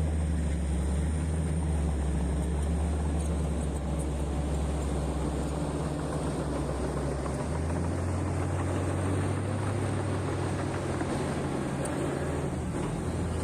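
Heavy diesel engine of a mining earthmoving machine running steadily with a deep hum; the engine note shifts about seven seconds in.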